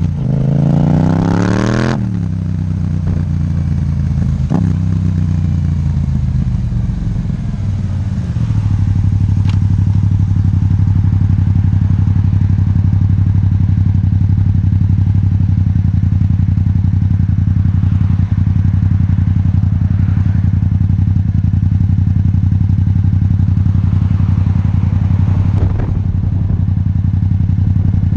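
Yamaha MT-07's 689 cc parallel-twin engine through an Akrapovic titanium exhaust, revving up sharply for about two seconds, then dropping in pitch over several seconds. From about nine seconds in it holds a loud, steady note.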